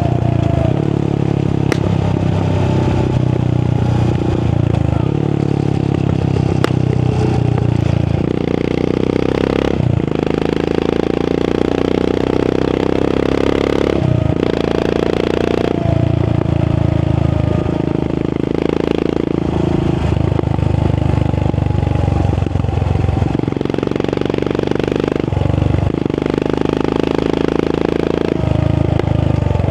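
Royal Enfield Continental GT 535's single-cylinder engine through an aftermarket AEW exhaust, riding on the road. The engine note changes repeatedly as the throttle is opened and closed.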